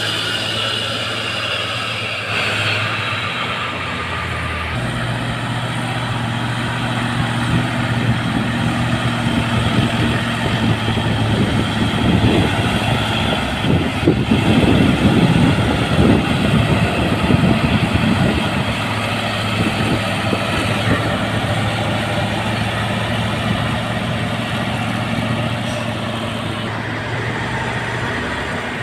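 Heavily loaded truck's diesel engine pulling under load on a steep climb, a steady hum that grows louder and rougher for several seconds in the middle, then settles.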